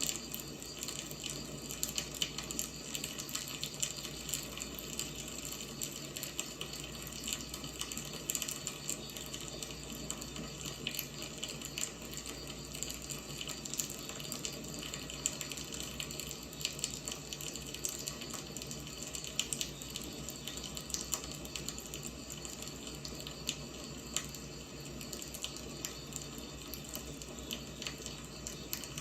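Wood fire burning: a steady hiss with frequent irregular crackles and small pops of the burning logs.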